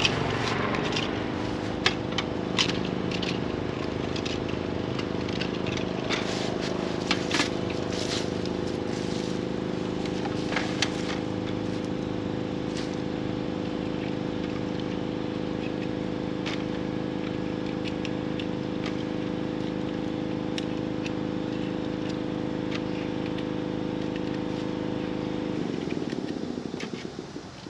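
An engine running at a steady idle, with a few sharp clicks on top; the engine fades out about 26 seconds in.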